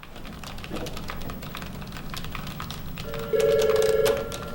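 Quick, irregular clicking of keys being typed on a keyboard. About three seconds in, a steady electronic tone joins it, loudest for about a second and then fading.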